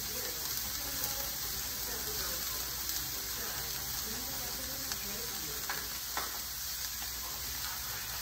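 Onions, garlic and bell peppers sizzling steadily in a frying pan.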